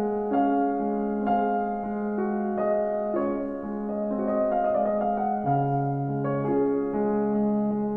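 Background piano music: slow, sustained notes changing about once a second over a held low note.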